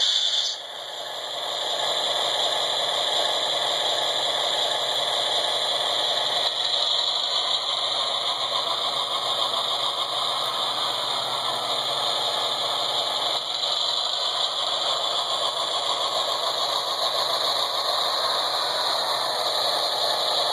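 Model train locomotive running along the track: a steady mechanical rattle and drone from its motor and wheels, swelling up about a second in and then holding steady.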